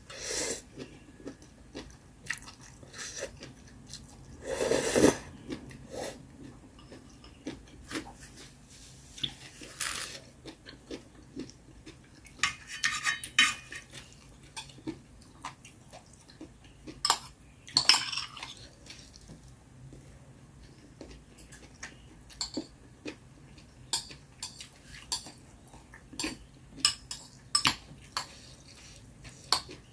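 Close-up eating sounds: utensils clicking and clinking against a bowl at irregular moments, with chewing between them.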